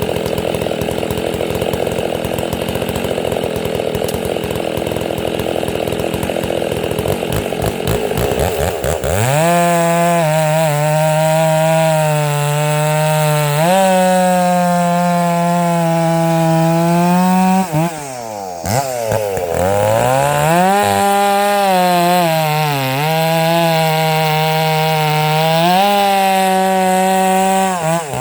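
Stihl 064 two-stroke chainsaw running hard through wood, at first a dense, rough cutting sound. About a third of the way in it changes to a clear, high-pitched engine note held at high revs. The revs dip briefly about halfway and a few more times toward the end.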